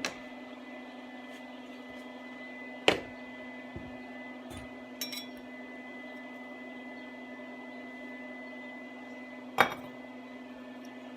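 Scattered sharp metallic clinks and knocks from metal pieces and tools being handled, three loud ones several seconds apart, over a steady electrical hum.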